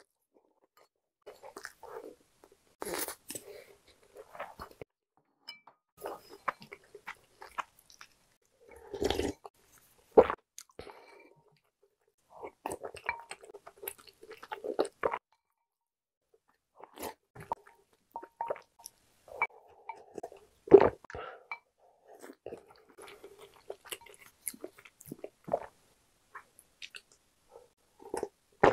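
Close-miked eating: chewing mouthfuls of rice, in irregular clusters, with a few sharper knocks of a spoon and chopsticks against ceramic bowls, the loudest about two-thirds of the way through.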